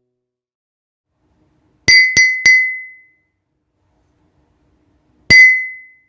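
A bright, high clinking chime sound effect: three quick strikes in a row, then a single strike about three seconds later. Each rings briefly on one high note and fades.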